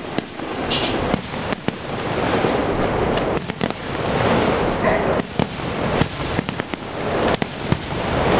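Aerial fireworks display: sharp bangs and cracks of bursting shells at irregular intervals over a continuous noisy din.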